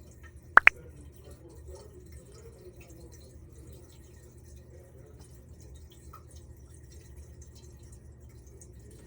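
Washing machine drain water running through the sink drain pipes with faint dripping, and two sharp plinks close together just over half a second in.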